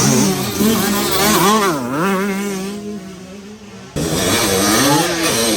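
Motorcycle engine revving, its pitch rising and falling through the throttle and gear changes, with a sharp drop and climb about two seconds in. About four seconds in the sound switches abruptly to another stretch of engine revving.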